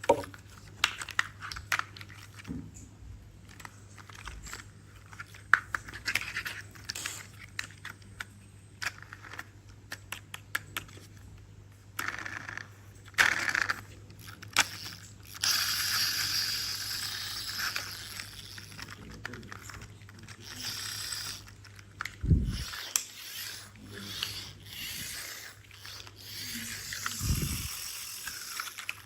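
Hands handling plastic toys: many small clicks and knocks with stretches of scraping and rustling, and a dull thump about two-thirds through and another near the end.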